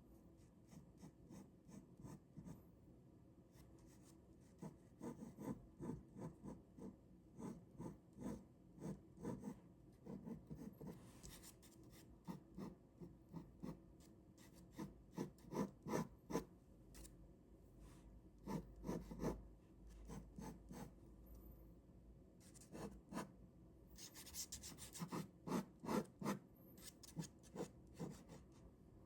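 Ballpoint pen drawing on paper: quick runs of short scratchy strokes, with brief pauses between the runs.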